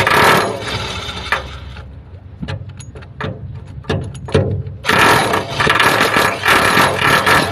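Medium 2300 W electric chipping hammer chiselling rust on a fishing boat: a dense, rapid hammering rattle that stops about two seconds in. A few separate knocks and clicks follow, and the hammering starts again about five seconds in.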